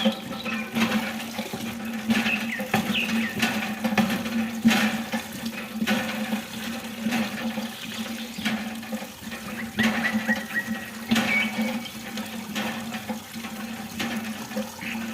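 Water running and splashing steadily, with a steady low hum underneath and a few scattered clicks.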